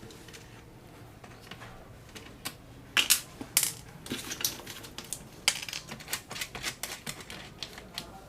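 Screws being undone with a screwdriver on a metal amplifier chassis: rapid, irregular clicks and taps, with a few sharp knocks about three seconds in that are the loudest.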